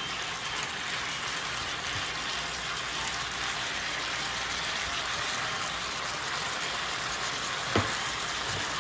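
Chicken strips with onion and green pepper sizzling steadily as they fry in an electric skillet. There is a single short knock near the end.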